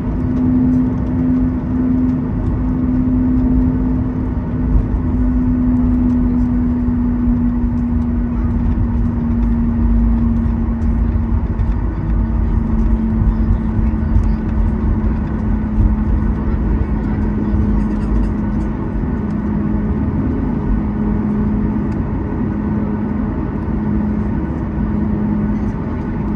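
Cabin noise of a Boeing 737 MAX 8 taxiing on the ground: a steady deep rumble with the CFM LEAP-1B engines' hum, which drifts slightly lower in pitch.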